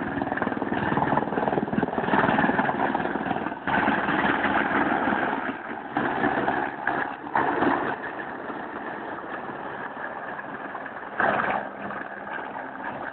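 Helicopter coming in to land close by: engine and rotor noise with gusts of rotor wash hitting the phone's microphone, louder in the first half and then easing off.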